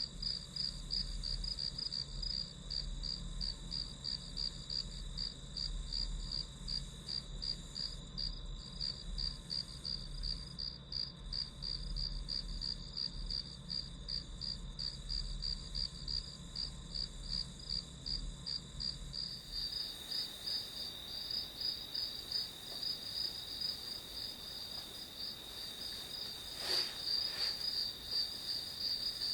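Crickets chirping in a steady high pulsed trill, about three chirps a second. A low hum underneath stops about two-thirds of the way in, and there is a single sharp click near the end.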